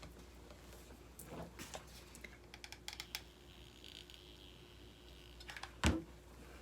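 Light clicks and taps of hands working rope and a hot glue gun, with one louder knock near the end.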